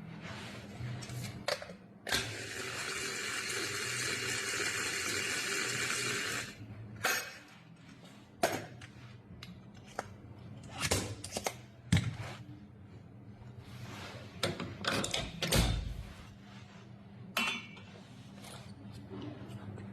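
A small kitchen appliance's motor runs in a harsh whir for about four seconds, then stops; scattered clicks, clinks and knocks follow, like things being handled on a counter.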